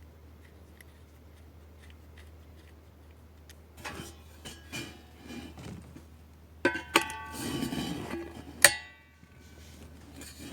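Metal clinking and knocking as a bent 4-inch exhaust tip is worked on, some knocks ringing on briefly, with one sharp strike near the end, over a low steady hum.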